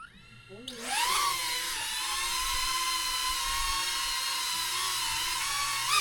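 Small quadcopter drone's propellers whining as the motors speed up, the pitch rising within the first second, then holding a steady hovering whine with a slight rise near the end.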